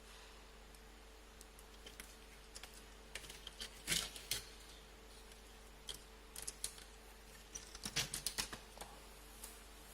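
Small plastic model-kit parts clicking and knocking as they are handled and pressed together. The clicks are scattered and irregular, with two busier runs, one about four seconds in and one about eight seconds in.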